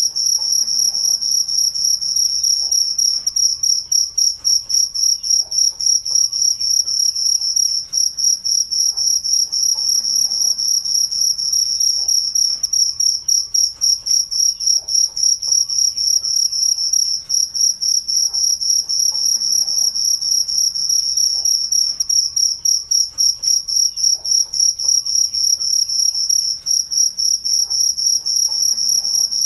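Cricket chirping in a continuous, fast-pulsed, high-pitched trill.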